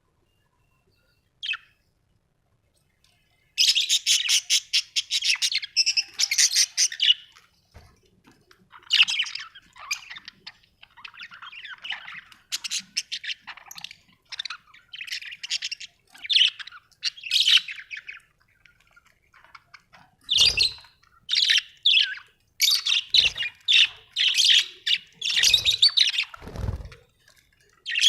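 Budgerigars chattering in long runs of rapid, high chirps and warbles, beginning a few seconds in. A few dull thumps come in the last third.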